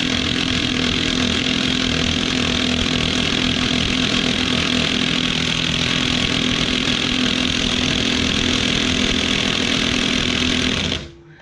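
Heavy-duty impact wrench hammering steadily on a 32 mm front axle nut for about eleven seconds, then cutting off suddenly; the nut has not broken loose.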